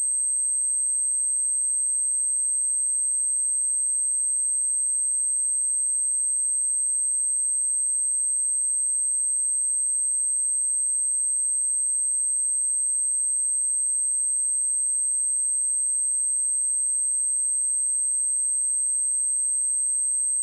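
A pure sine-wave test tone at 8292 Hz, one steady high-pitched whistle held at constant pitch and level, used for testing speakers and for shaking water and dust out of them.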